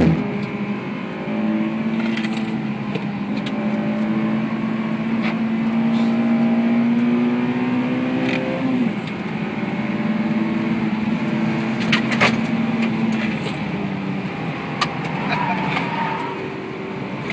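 Honda S2000's four-cylinder engine under load, heard from inside the cabin on track, its pitch slowly climbing, dipping suddenly a little after halfway, then holding and easing off near the end. A few sharp clicks and rattles sound over it.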